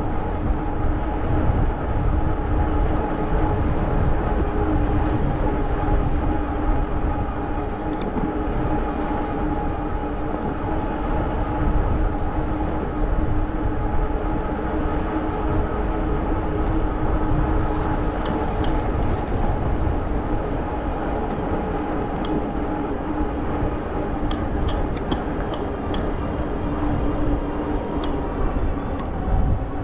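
E-bike riding at a steady speed: a steady, even whine from the moving bike with heavy wind rumble on the camera's microphone, and a few faint clicks past the halfway point.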